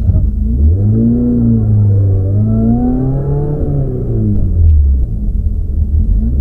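Peugeot 206 rally car's engine heard from inside the cabin, pulling at moderate revs: its pitch climbs from about a second in, peaks after a couple of seconds and drops back to a low steady note near the end.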